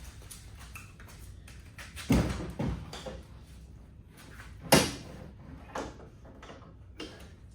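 Irregular knocks and thumps as wooden transom boards are handled and fitted against the aluminum jon boat's transom. There are two loud knocks about two seconds in, a louder single one near the middle, and lighter taps between.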